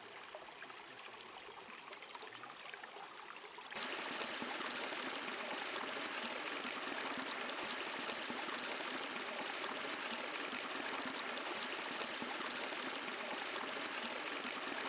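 Running water of a river flowing over stones, a steady rushing that becomes louder and fuller about four seconds in.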